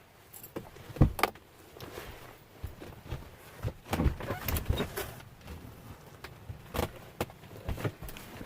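Irregular knocks, clunks and rustles of someone moving about and handling a door, with a sharp clunk about a second in and a busy cluster in the middle.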